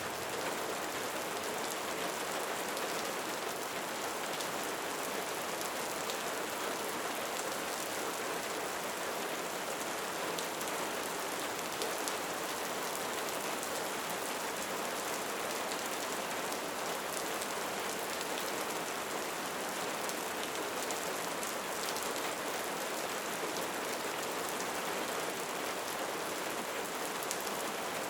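Steady rain falling, an even hiss made of many small drop impacts that keeps up without a break.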